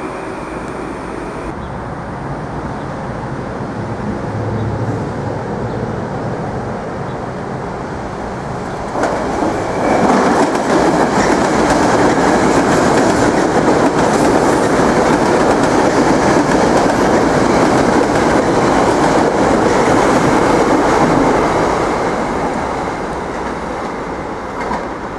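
Metro-North electric multiple-unit commuter train running past on the tracks: a steady rush of wheels on rail. It jumps louder about nine seconds in as the train passes close, then fades over the last few seconds.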